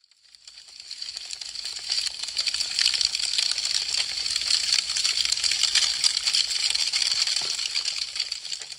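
Wood fire crackling: a dense, continuous run of sharp snaps and pops, swelling up out of silence over the first couple of seconds and dying away near the end.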